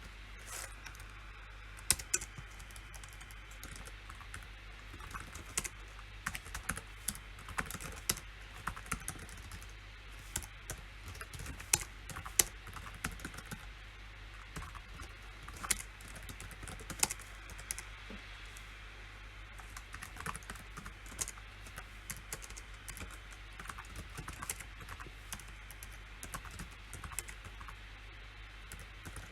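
Typing on a PC keyboard: irregular runs of key clicks with short pauses and occasional louder key strikes, over a steady low hum.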